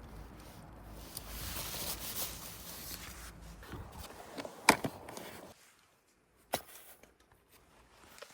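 Rustling and handling of camping gear, with a sharp knock about four and a half seconds in, then quieter, and another single knock a couple of seconds later.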